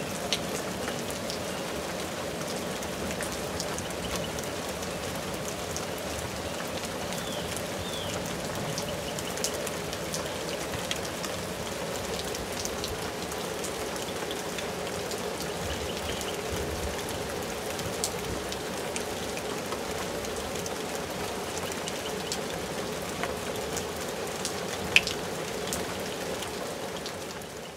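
Steady rainfall with scattered individual drops ticking sharply, one louder drip about 25 seconds in. The sound fades out near the end.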